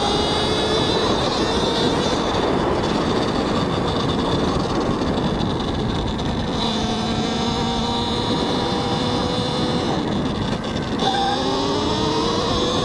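Talaria X3 electric dirt bike's motor whining as it is ridden, its pitch gliding up and down with speed and climbing again near the end, over heavy wind and tyre noise on the helmet microphone.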